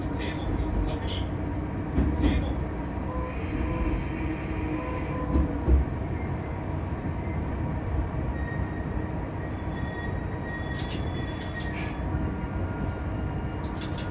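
Tosa Kuroshio Railway 8000 series diesel railcar running along the line: a steady low rumble of engine and wheels on rail with a few thumps in the first half, and faint thin high-pitched squeals joining in the second half.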